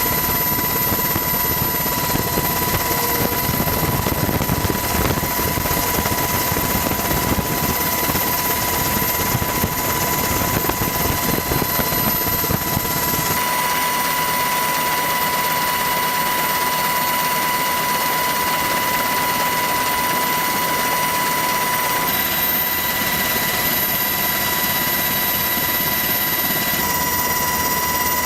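Loud, steady engine noise with a high, steady whine over it. The deep rumble drops out suddenly about thirteen seconds in, leaving the hiss and whine.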